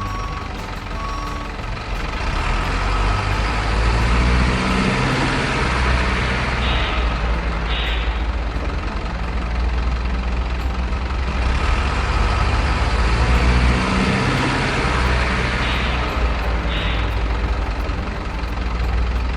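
Truck diesel engine sound running and revving, its pitch climbing slowly twice, with two pairs of short hisses like air-brake releases.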